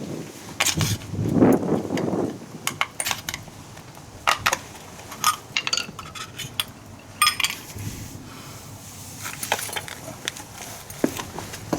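Metal tools and parts clinking and clattering as they are handled, a series of separate sharp clicks and clinks.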